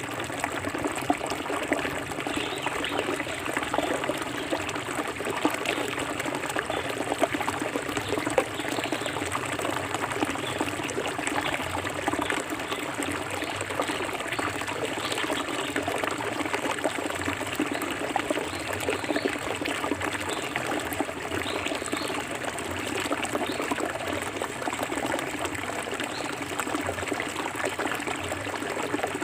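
Forest river water flowing and trickling steadily over rocks: a continuous burble dense with small splashes.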